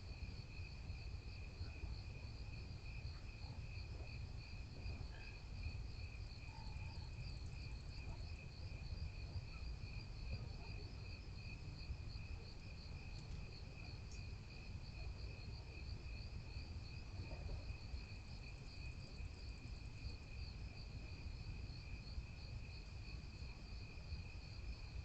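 Crickets trilling steadily in a continuous chorus, at two different pitches, over a low rumble.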